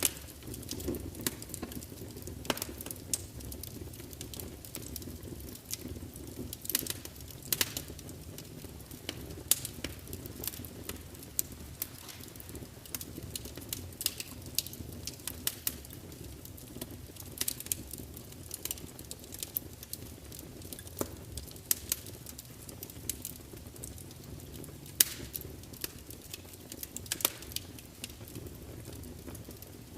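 Wood fire burning in a large open fireplace: a steady low rumble of flames with frequent irregular sharp crackles and pops from the burning logs.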